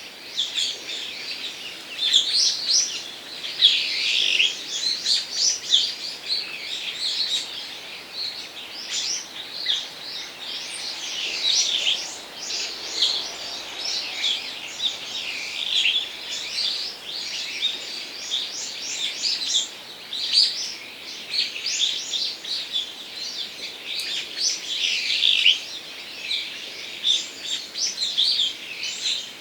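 Many small birds chirping and calling over one another in a dense, unbroken stream of short, high chirps.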